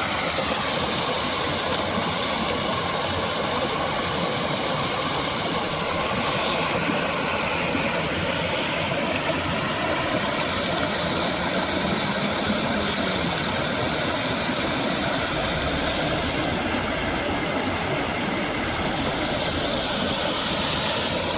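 Fast, heavy water flowing out of a dam, a steady rushing noise that does not change.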